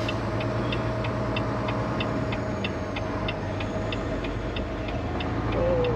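Semi truck's indicator flasher clicking evenly, about three clicks a second, over the steady drone of the truck's engine running on the highway.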